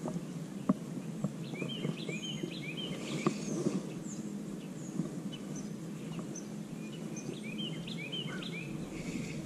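A songbird singing two phrases of quick repeated chirps, one starting about a second and a half in and one near the end, over a steady low outdoor background noise. A couple of sharp short taps, the loudest sounds, come about a second in and again a few seconds later.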